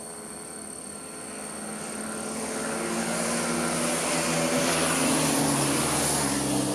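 Honda CB650F's inline-four engine approaching from a distance, its steady engine note growing louder as it nears.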